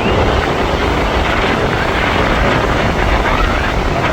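Aircraft engine noise from a display aircraft flying past, a loud, steady rumble.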